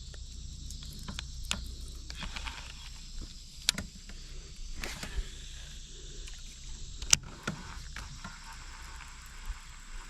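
Insects droning steadily in a high, thin tone over a low rumble, with a few sharp clicks and knocks scattered through, the loudest about seven seconds in.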